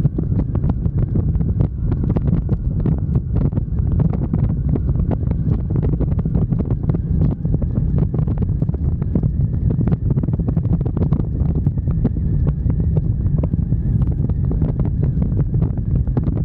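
Wind rumbling and buffeting against the microphone of a moving motorcycle, steady throughout with constant crackling gusts.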